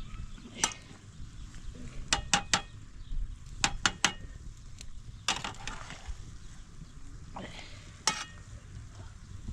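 Irregular sharp clicks and knocks, some in quick runs of two or three, over a steady low background rumble.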